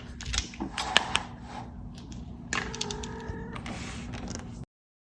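Several sharp clicks and rustling noises, with a faint steady tone in the middle; the sound cuts off abruptly about four and a half seconds in.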